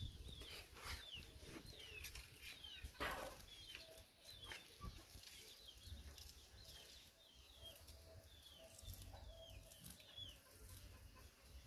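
Faint, short high chirps from birds, each falling in pitch, repeating about once a second.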